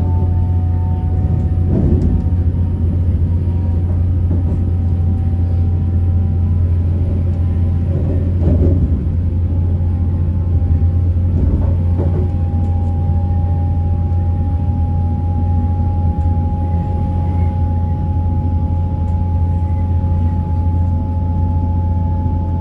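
Hull Trains Class 802 bi-mode train heard from inside a carriage as it pulls away, running on its underfloor diesel engines: a loud, steady deep drone with thin whining tones that rise slowly in pitch as it gathers speed. A few brief knocks come through from the running gear.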